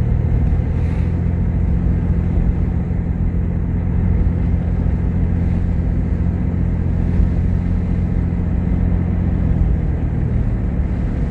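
A vehicle driving along: a steady low drone of engine and road noise that holds even throughout.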